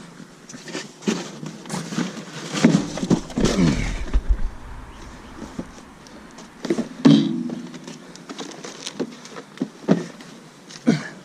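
Rummaging through e-waste in a dumpster: irregular knocks, clatter and rustling as bags and gear are pulled about, with a brief low rumble about four seconds in.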